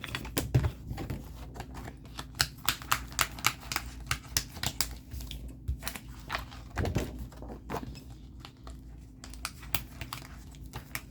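Printed paper pages being handled and sorted: a run of quick light clicks, taps and paper rustles, several a second, pausing briefly twice.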